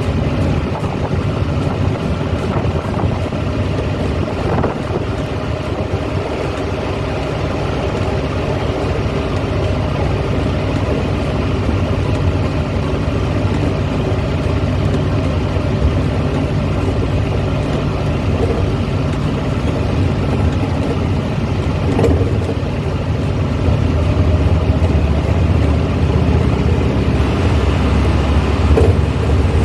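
1970s Volkswagen's engine running steadily as the car drives, with a low drone of engine and road noise. The engine note rises slightly and gets a little louder in the last few seconds.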